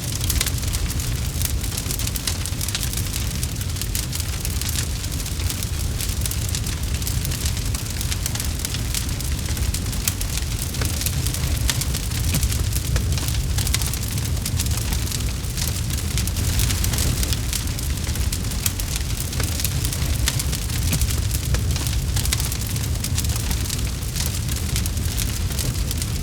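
Campfire burning, with a continuous stream of small crackles over a steady low rumble.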